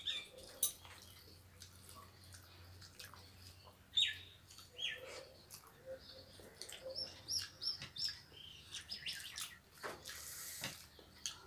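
Faint bird chirps: a couple of short falling calls about four and five seconds in, then a quick run of high notes a few seconds later. Soft clicks of fingers working rice on plastic plates sound in between.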